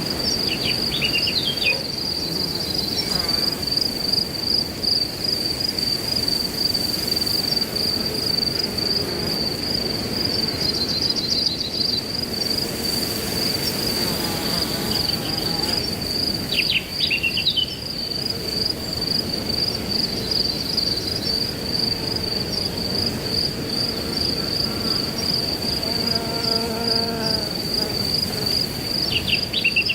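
Crickets trilling in one steady, high, pulsing note over a soft rush of wind in grass. Short bird calls break in near the start, about halfway and at the very end.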